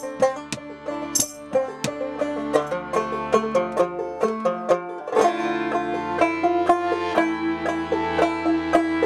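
Clawhammer-style banjo and accordion playing a dark, traditional-sounding folk tune together: quick plucked banjo notes over held accordion notes.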